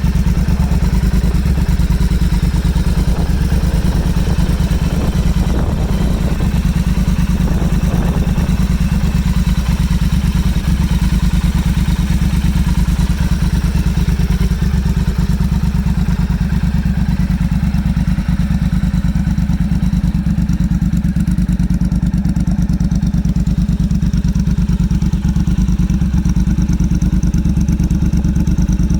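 Motorcycle engine idling steadily with a rapid, even beat of firing pulses.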